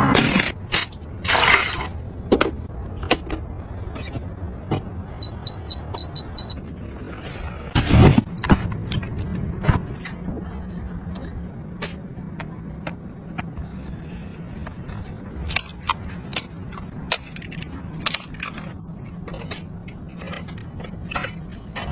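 Clicks, taps and knocks of small household gadgets being handled, with a louder clatter about eight seconds in. About five seconds in there is a quick run of about six short high beeps, over a steady low hum.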